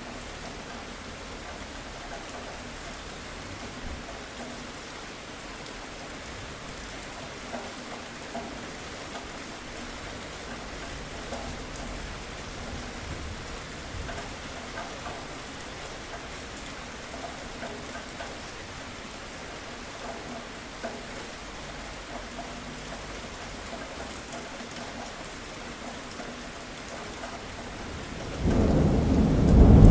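Steady rain falling, with scattered drop ticks. Near the end a loud, low rumble of thunder breaks in suddenly and builds.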